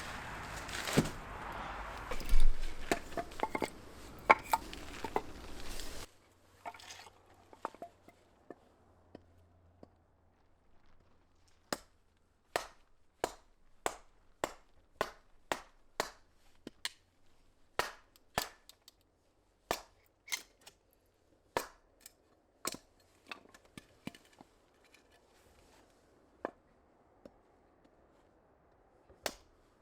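Kitchen knife chopping on a cutting board: a steady run of sharp, even strokes, a little under two a second, with short pauses between runs. Before it, for a few seconds, there is outdoor background noise with some knocks, which cuts off suddenly.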